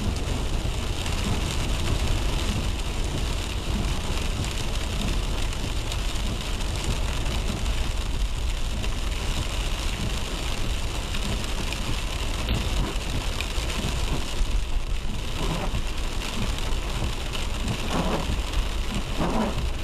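Car driving in the rain: a steady low road rumble under the hiss of rain and wet tyres. Near the end, a few short repeated sounds come about a second apart.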